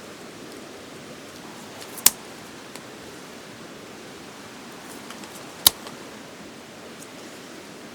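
Wood fire burning with a steady hiss, with two sharp pops about two seconds and nearly six seconds in.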